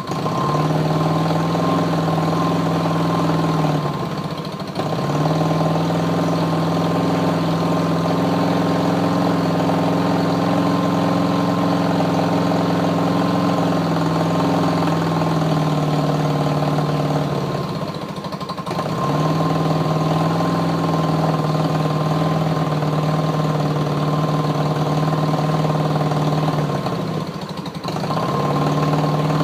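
BMW R75/5 750 cc air-cooled flat-twin (boxer) engine running steadily with its carburettor enrichers up, still cold. Its speed sags and the note drops three times, about 4, 18 and 27 seconds in, then picks back up each time.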